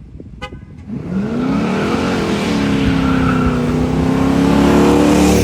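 An engine revving up about a second in, then held at high revs, before cutting off abruptly.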